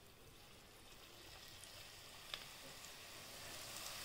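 Thin slices of raw tapioca (cassava) sizzling faintly in hot oil as they are dropped in, the sizzle growing steadily louder as more slices go in. One small click about two seconds in.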